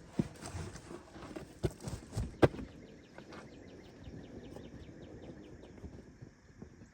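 A few scattered knocks and footstep-like thumps, the loudest about two and a half seconds in, then a quieter stretch with faint, evenly repeated ticks, about four or five a second.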